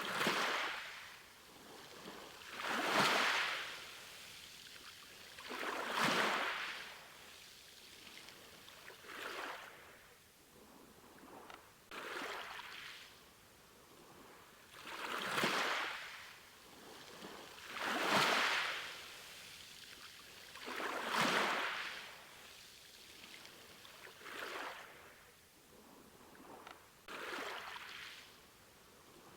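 Small sea waves washing in and out on a shore, each surge swelling and fading about every three seconds.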